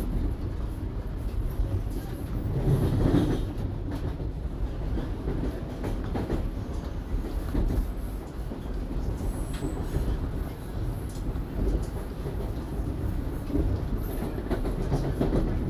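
Toronto subway Line 1 train running between stations, heard from inside the car: a steady low rumble of wheels on track with scattered light clicks, swelling louder about three seconds in.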